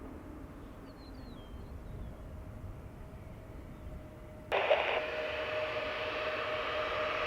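A low outdoor rumble with a faint bird chirp. About four and a half seconds in, a sudden jump to a steady, louder jet engine roar, a hiss with a held whining tone.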